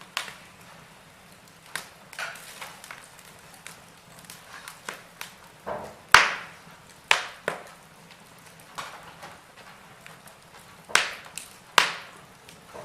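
Wood fire in a fireplace crackling, with irregular sharp pops and snaps over a low hiss. The loudest snap comes about six seconds in, and two more come close together near the end.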